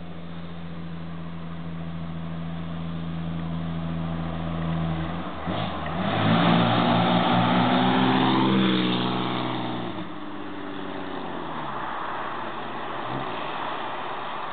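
Chevrolet 4.3 V6 in a Model A roadster running steadily, then revving up loud as the car accelerates about five seconds in; its note falls away and fades about ten seconds in.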